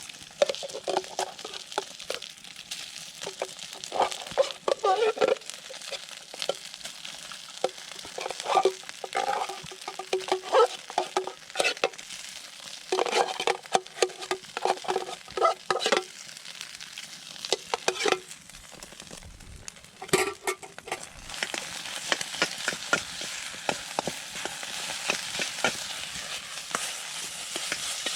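Food frying in a metal pan while a utensil stirs it, scraping and knocking against the pan again and again. About two-thirds of the way through, the knocking stops and a steadier sizzle takes over.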